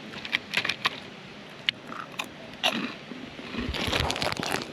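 A person chewing food close to the microphone, with scattered wet clicks and smacks, and a louder rustling noise for about a second near the end.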